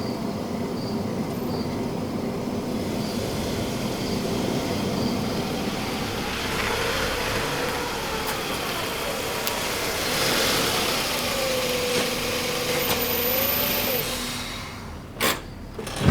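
A motor vehicle's engine running steadily, then two sharp knocks near the end.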